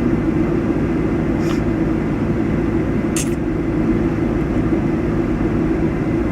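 Steady low rumble of an idling vehicle engine, with two short faint ticks about a second and a half and three seconds in.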